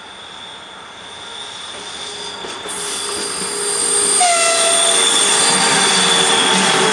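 A freight train hauled by a 2ES10 "Granit" electric locomotive approaching and passing on a curve, growing steadily louder until the locomotive draws level about four seconds in. A steady high wheel squeal runs throughout, and a brief horn blast sounds about four seconds in.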